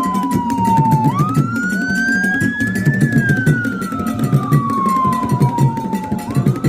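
A siren wail, a single tone slowly rising and falling about once every five seconds, over music with a steady low beat.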